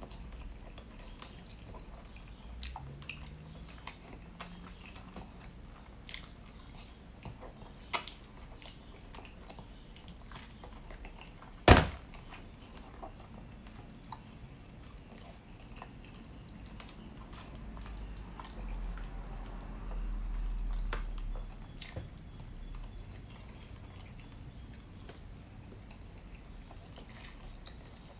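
Close-miked chewing and mouth sounds of a man eating honey rotisserie chicken with his fingers, with many small clicks. A single sharp knock about twelve seconds in is the loudest sound, and a low rumble swells for a few seconds around twenty seconds in.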